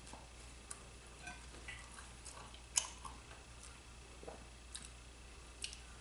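A person chewing a mouthful of pizza with scattered soft mouth clicks and smacks; the sharpest click comes a little before halfway.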